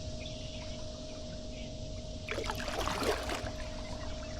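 Kayak paddle dipping into the water: a short run of splashing and dripping a little past halfway, lasting about a second, over a low steady rumble.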